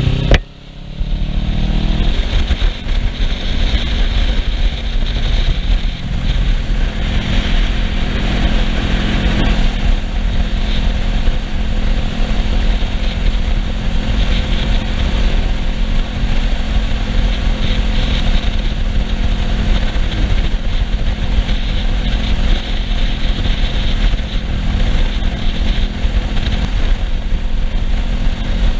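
Kawasaki Ninja 650R's parallel-twin engine running at a steady cruise, heard under heavy wind rush on the rider-mounted camera's microphone. Near the start the sound dips sharply for about a second, then the engine note settles and holds steady.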